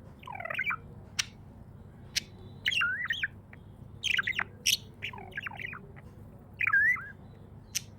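Pet budgerigar chirping, a string of short chirps that glide up and down in pitch, with a few sharp high ticks between them, over a steady low hum.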